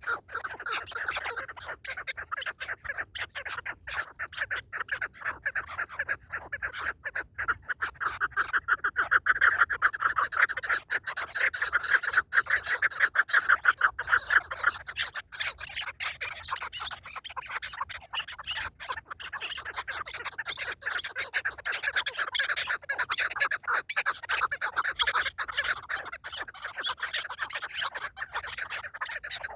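Partridges calling in a rapid, continuous chatter of clucking notes, loudest in the middle stretch.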